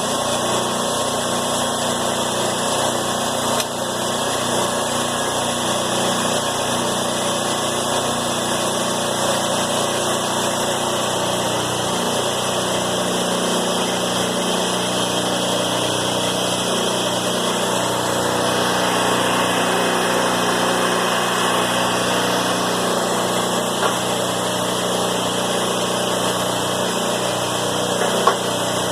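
An engine running steadily at constant speed, with a single sharp click about a second before the end.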